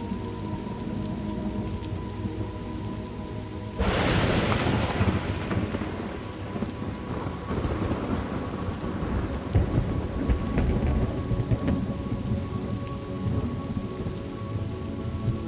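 Thunderstorm ambience: steady rain, with a thunderclap breaking in suddenly about four seconds in and rumbling away over several seconds, over a bed of steady sustained tones.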